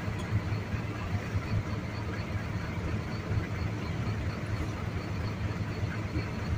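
Truck engine idling steadily with a low hum.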